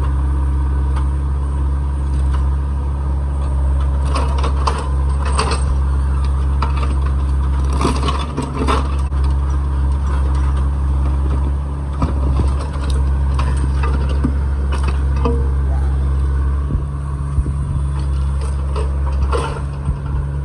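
A heavy excavation machine's engine runs steadily, with scattered clanks and scrapes, likely concrete rubble being broken and moved, heard several times.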